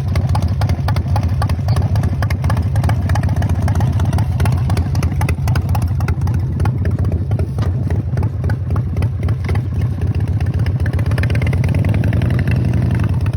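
Harley-Davidson FXR's V-twin engine running steadily, a dense rapid stream of low exhaust pulses.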